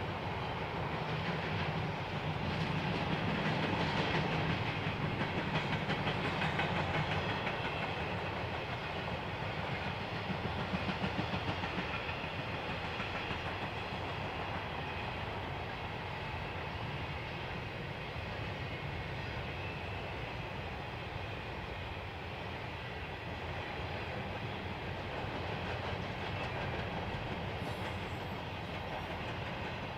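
Freight train rolling past, the steady noise of its cars on the rails, a little louder in the first ten seconds or so.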